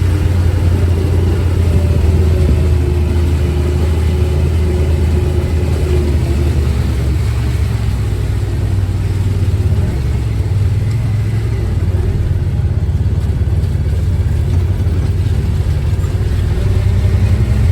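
An engine running steadily with a constant low hum, holding the same speed throughout.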